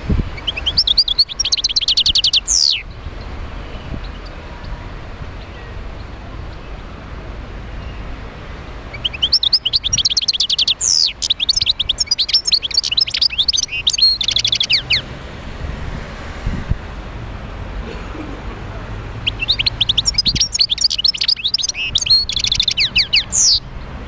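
European goldfinch singing in three bouts of rapid twittering trills and sweeping notes: about a second in, again around ten seconds in, and near the end. A steady low rumble runs underneath.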